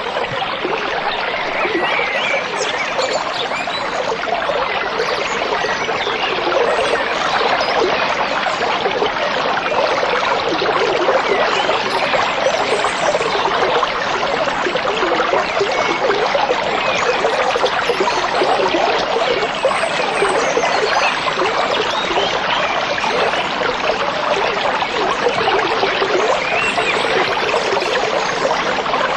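A small stream trickling and babbling steadily over stones, with a few faint bird calls above the water.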